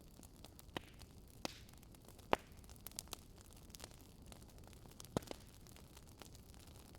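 Wood fire crackling: irregular sharp pops and snaps over a faint low hiss, with the loudest snaps a little over two seconds in and again about five seconds in.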